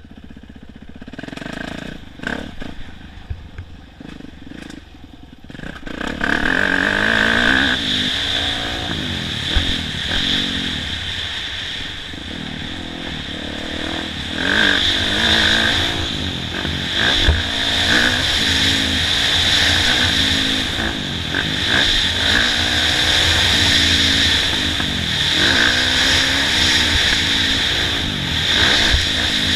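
Kawasaki KX450F four-stroke dirt bike engine, ridden on a motocross track. It is quieter for the first six seconds, then runs loud with its pitch rising and falling again and again as the throttle is worked and the gears change.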